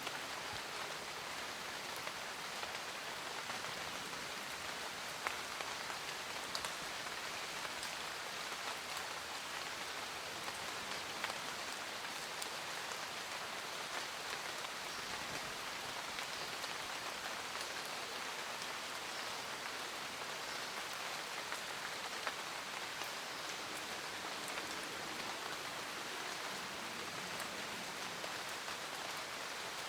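Steady rain falling, with individual drops ticking sharply now and then over an even hiss.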